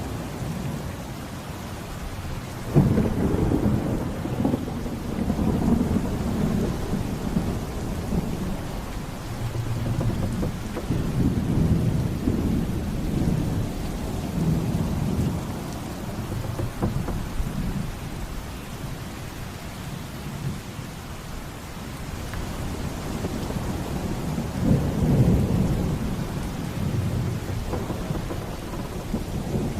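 Thunderstorm: steady heavy rain with rolling thunder. A sudden crack of thunder about three seconds in rumbles on for several seconds, and another rumble swells near the end.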